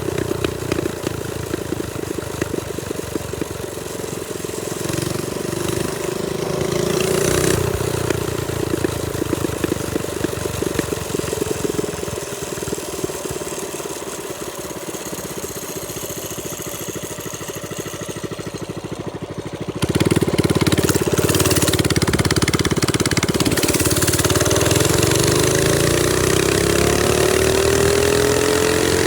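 Trailmaster Storm 200 minibike's small single-cylinder engine running while ridden. The throttle is opened sharply about two-thirds of the way through, so it gets louder, and near the end its pitch rises as the bike speeds up.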